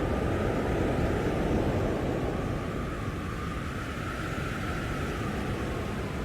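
Blizzard wind blowing steadily, a little stronger in the first couple of seconds and then easing slightly.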